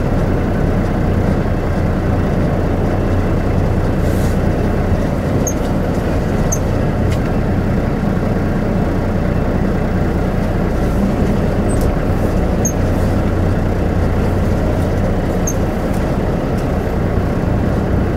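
Semi truck's diesel engine running steadily at low speed as the tractor-trailer reverses slowly.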